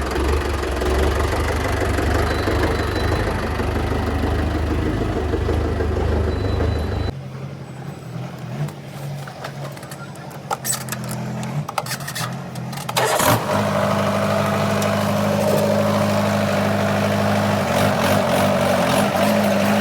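Mahindra tractor's diesel engine running steadily. About seven seconds in the sound changes abruptly to a quieter stretch with scattered clicks and knocks, and from about thirteen seconds a louder, steady, higher engine note sets in.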